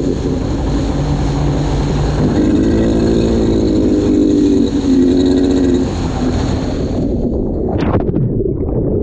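Watercraft engine running out on the water, its pitch rising and falling with the throttle over the rush of water and wind.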